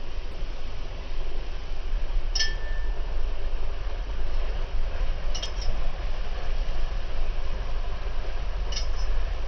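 Vehicle rolling along a rough dirt two-track, a steady deep rumble, with three short metallic-glassy clinks of something loose rattling, about two and a half, five and a half and nine seconds in.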